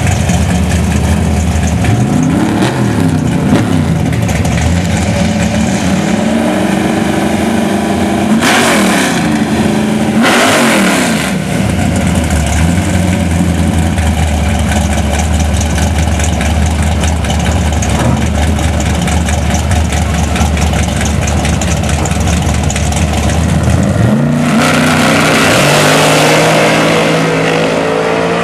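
Drag-racing cars' engines idling with a steady, lumpy note at the starting line, revved sharply and let fall several times. About 24 seconds in, the cars launch at full throttle, the engine pitch climbing hard as they pull away.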